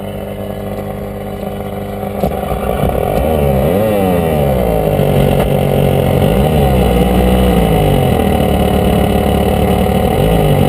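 Small car's engine running, then revved up and down repeatedly from about three seconds in.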